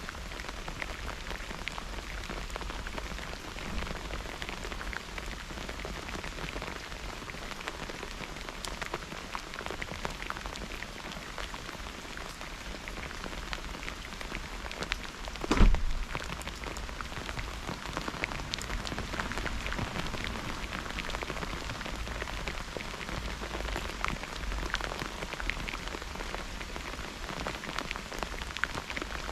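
Steady heavy rain falling and pattering on surfaces, with many small drop ticks. About halfway through there is one sharp, loud thump.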